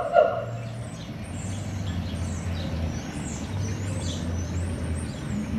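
Small birds chirping and twittering in quick, repeated high notes, over a low hum that comes and goes.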